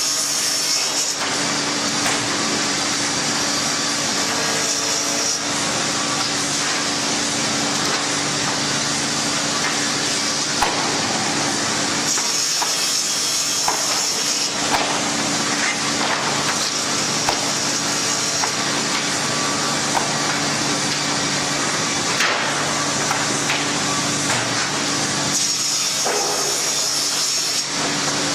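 Sawmill machinery running with a steady motor hum while a saw cuts through wood. The cutting noise grows brighter and harsher for a couple of stretches.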